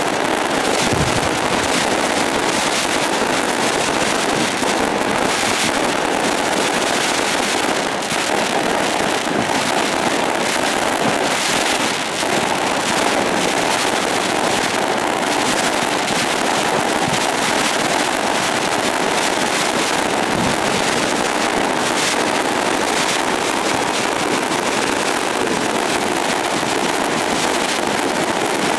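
Fireworks crackling in a dense, unbroken barrage, with many rapid pops running together into a continuous din.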